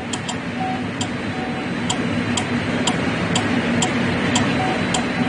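Light clicking, about two a second and slightly uneven, over a steady hum, from the 2013 Chevy Malibu's electrics as it fails to start with its engine ground cable disconnected: a symptom of the missing engine ground.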